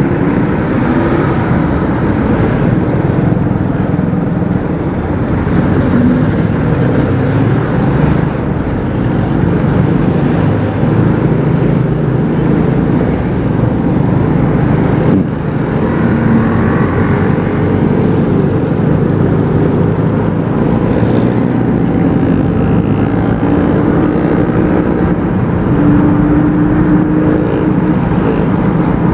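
Motorcycle engine running steadily while riding, under a continuous rush of road noise.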